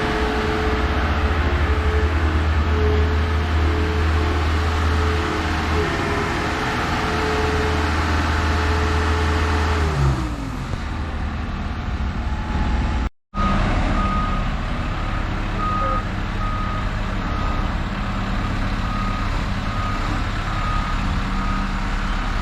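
Engine of a boatyard travel lift running steadily with a held whine that glides down in pitch about ten seconds in. After a brief break, the lift's motion alarm beeps about once a second over the engine.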